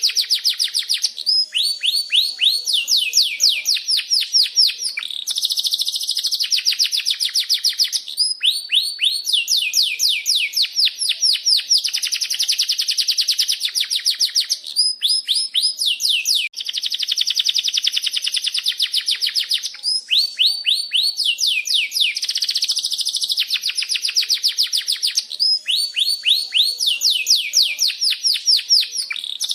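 Domestic canary singing a long, unbroken song of rapid trills and rolls: runs of fast, evenly repeated down-sweeping chirps that switch to a new trill every couple of seconds.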